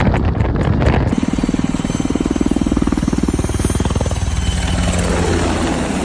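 Wind buffeting the microphone for about a second, then an abrupt cut to an engine running with a rapid, even pulse over a steady low hum.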